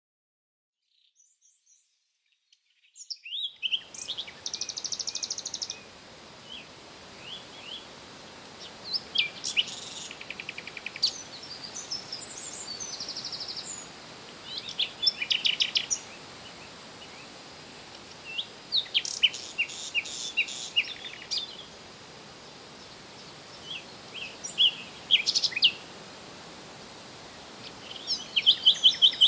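A songbird singing: short phrases of quick high chirps and rapid trills, repeated about every five seconds, over a steady background hiss. The sound fades in about three seconds in.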